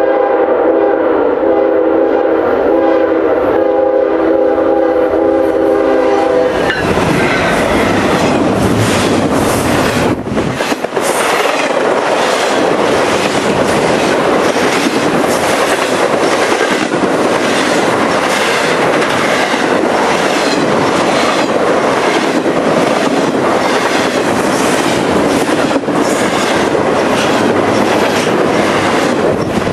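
Norfolk Southern locomotive air horn sounding a chord of several notes at once, held until it cuts off about seven seconds in. The train then rolls past in a loud, steady rush with the rhythmic clatter of its wheels on the rails.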